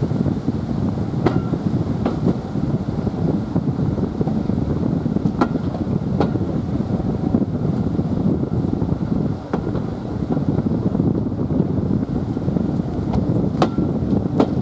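Steady running rumble of a train heard from its cab as it travels along the line. Pairs of sharp clicks come about three times, each pair under a second apart, typical of wheels crossing rail joints.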